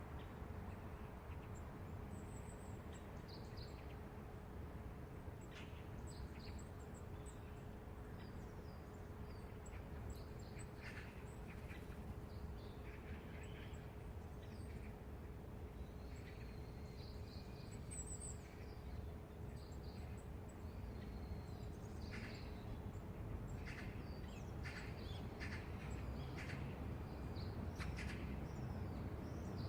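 Low, steady city rumble with small birds chirping and twittering in short, scattered calls throughout. A faint steady hum sits under it and fades out about 24 seconds in.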